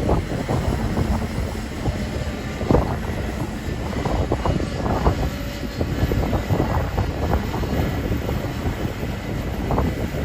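Kobelco excavator at work, its engine running with a steady low rumble, with frequent irregular knocks and rattles of the machine and the earth it is handling.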